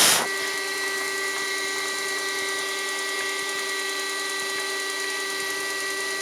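Milling machine running steadily with no load, its motor and spindle giving an even hum with a constant whine.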